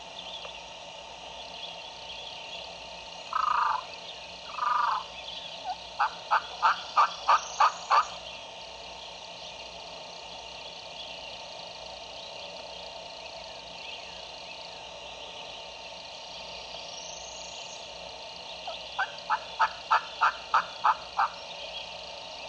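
Turkey yelping: two drawn-out notes, then a run of about eight short, sharp yelps at roughly four a second. A second run of about nine yelps comes near the end. A steady frog chorus continues underneath.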